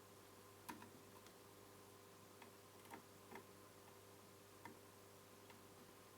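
Faint, scattered clicks and ticks of a screwdriver driving small screws to fasten a circuit board back into a TV chassis, about seven in all, over a faint steady hum.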